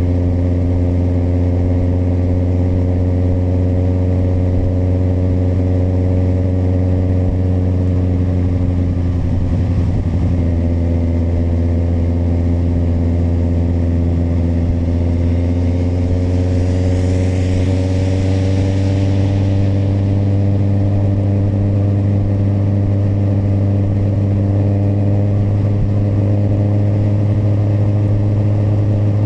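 Kawasaki motorcycle engine running steadily while riding, its pitch easing off about a third of the way in and climbing again a little past halfway. A brief hiss swells and fades about two-thirds through.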